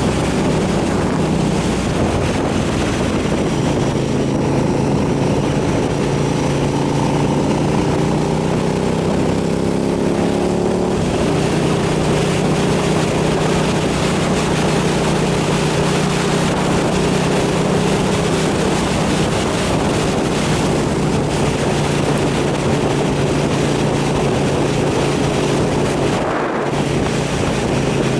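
KTM 990 SMR's V-twin engine running under way, with wind rushing over the microphone. The engine note changes about ten seconds in and then holds steady, with a brief dip near the end.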